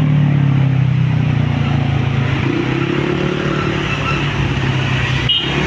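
Road traffic: vehicle engines running steadily at low pitch close by, over tyre and road noise.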